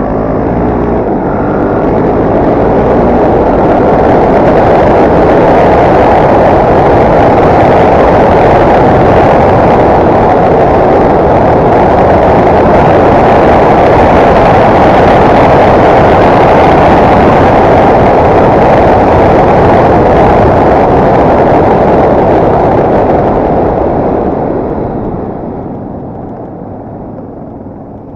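Enduro motorcycle being ridden at speed, a loud dense rush of engine and wind noise. It builds over the first few seconds, holds steady for most of the stretch, then eases off near the end.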